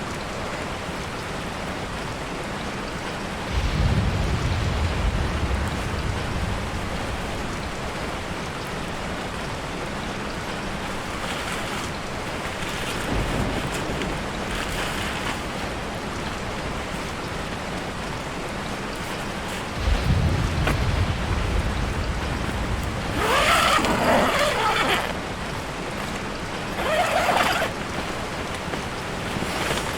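Steady rain falling on a tarp shelter and the surrounding forest. Twice a sudden low rumble swells and fades, about four seconds in and again about twenty seconds in, and near the end there are a few brief louder sounds.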